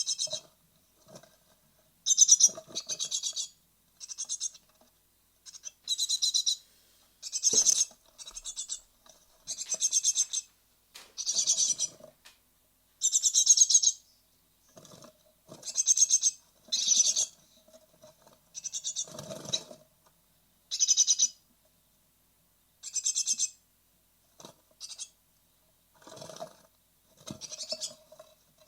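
Great tit nestlings calling in the nest box: repeated bursts of rapid, high-pitched calls, each about half a second to a second long, coming every second or two. These are the calls of young great tits ready to fledge.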